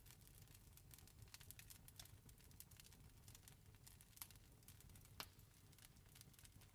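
Campfire crackling faintly: irregular small pops and snaps, with one louder pop about five seconds in, over a low steady rumble.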